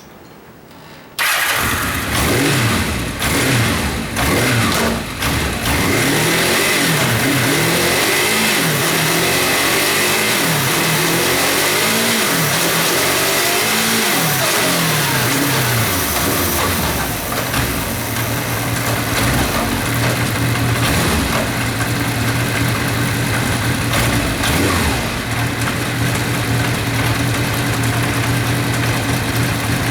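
Kawasaki Zephyr 750's air-cooled inline-four engine starting about a second in, then revved repeatedly in quick blips that rise and fall cleanly for about fifteen seconds, before settling to a steady idle. The engine runs and revs up smoothly.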